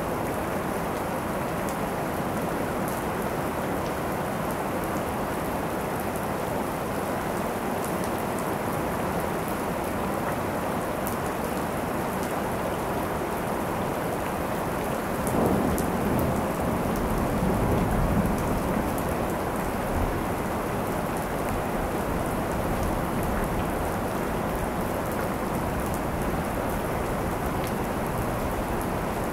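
Steady rain falling, with a roll of thunder rumbling up about halfway through and fading over several seconds.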